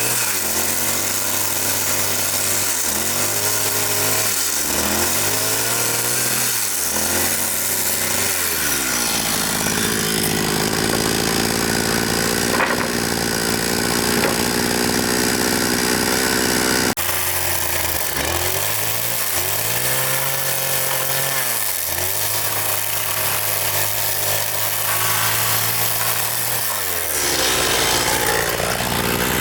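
A small engine running and revving up and down over and over, with a brief break about halfway through.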